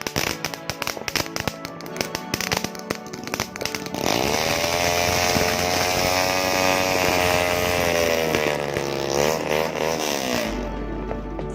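Firecrackers going off in a rapid crackle of pops. About four seconds in they give way to a loud, buzzing drawn-out tone that holds steady, wavers up and down in pitch, and stops shortly before the end.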